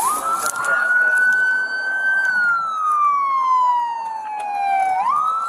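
Police siren wailing: a quick rise to a high tone held for about two seconds, then a slow fall over about three seconds, and another quick rise near the end.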